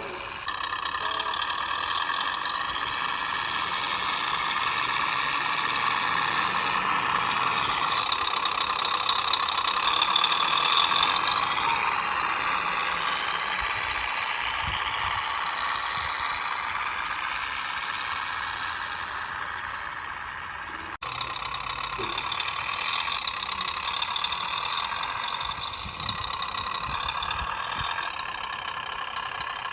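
Radio-control vehicle motors running: a steady high whine that rises and falls in pitch. It breaks off abruptly about two-thirds of the way through, then carries on.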